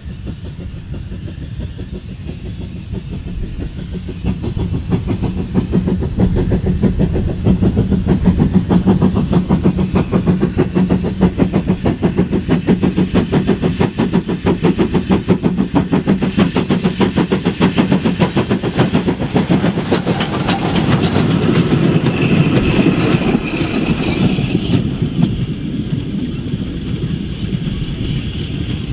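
A train running past on the line, its rapid rhythmic beat growing louder about four seconds in, staying loud through the middle and easing off near the end, with a brief high steady tone late on.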